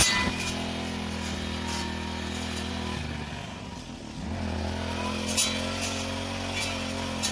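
Small petrol engine of a grass-cutting machine running steadily, easing off briefly a little past the middle and then picking back up, with a few sharp ticks over it.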